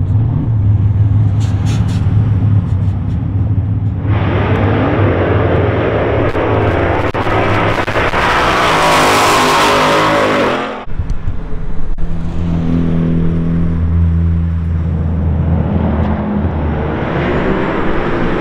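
Car engines running: a steady low idle, then about four seconds in a car revs up hard and accelerates for several seconds, rising in pitch and getting louder, before cutting off suddenly; idling engine tones carry on afterwards.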